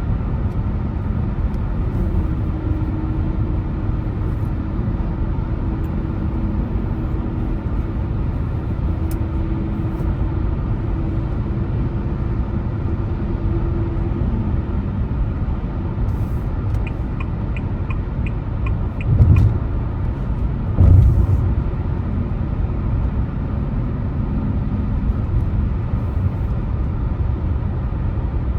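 A car driving on the road with a steady low rumble of engine and tyre noise. A steady hum runs through the first half. A short run of quick, evenly spaced ticks comes about two-thirds of the way in, and two hard thumps follow a second or two apart.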